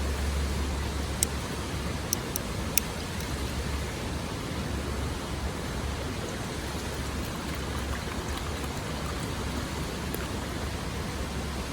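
Wood fire burning in a Solo Stove Titan, giving four sharp crackling pops in the first three seconds over a steady rushing hiss.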